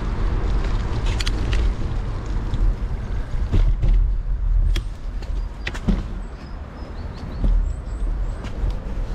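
Bicycle being ridden: a steady low rumble from the ride, with scattered clicks and rattles from the bike throughout.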